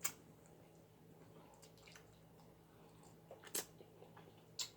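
Someone chewing baked lobster tail: a few short, faint wet mouth clicks and smacks, the loudest about three and a half seconds in.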